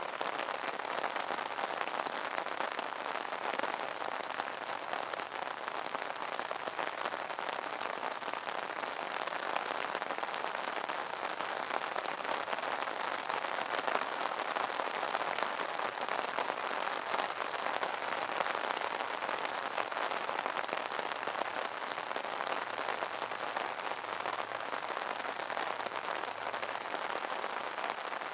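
Steady rain pattering on an umbrella's fabric canopy, a dense even patter of many small drop impacts.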